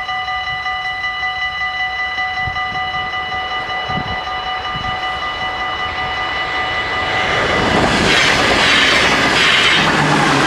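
Level-crossing warning bells ringing steadily in a fast, even pulse of about three to four strokes a second. From about seven seconds in a passing train's noise builds up and becomes the loudest sound, over the bells.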